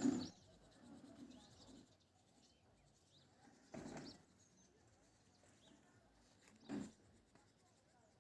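Three short animal calls a few seconds apart, with faint high chirps between them.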